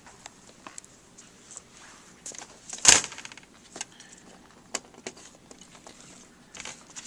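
Small clicks and taps of laptop parts being handled during a keyboard replacement, with one louder, brief rattling clatter about three seconds in.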